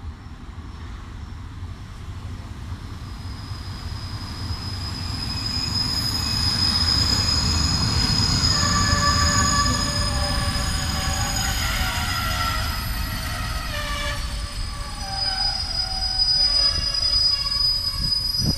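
A locomotive-hauled train passing close by on the rails. Its rumble builds over the first several seconds and is loudest about seven to ten seconds in. High-pitched wheel squeal runs through it, with several squealing tones in the middle.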